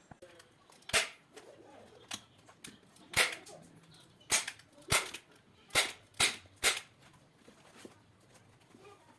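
A series of about seven sharp, loud knocks or snaps at uneven intervals, some close together and some about two seconds apart.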